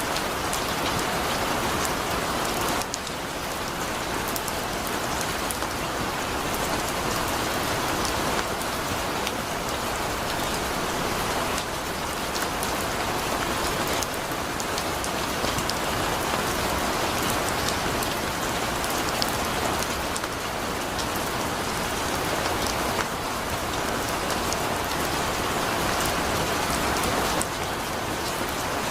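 Heavy rain falling steadily: an even hiss of downpour with the fine patter of individual drops.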